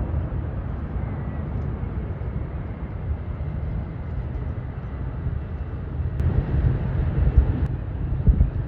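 Jet airliner engines rumbling steadily, with a faint high whine over the low roar, which grows louder and more uneven near the end.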